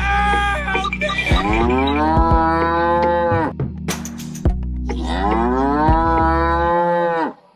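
Cow mooing twice: two long drawn-out calls, each rising and then falling in pitch, over background music.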